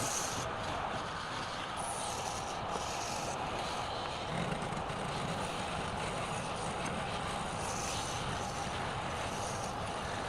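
Wood lathe running with a turning tool scraping and cutting the spinning wood: a steady rough scraping noise.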